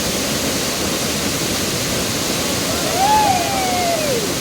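Waterfall rushing steadily. About three seconds in, a single drawn-out call rises and then falls over it.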